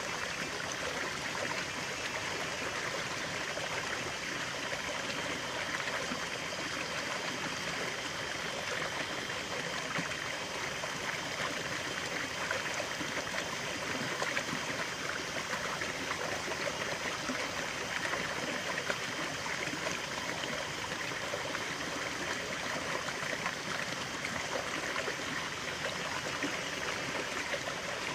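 Running water of a stream, a steady rushing and trickling flow.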